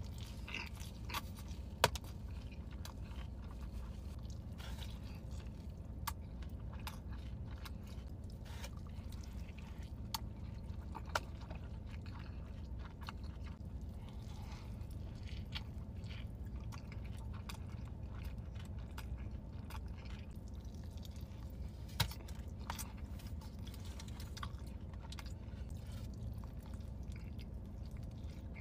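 Close-miked chewing and biting of a large sauce-covered burger, with many small wet clicks and some crunching, and a sharp click about two seconds in and again about twenty-two seconds in. A steady low hum lies underneath.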